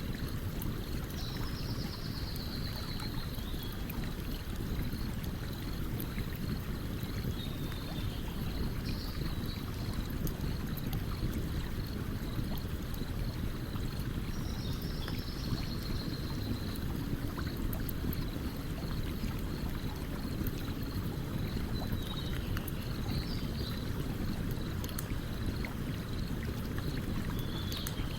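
Stream water running steadily under a campfire's faint, sparse crackling. A few faint high chirps come and go several times.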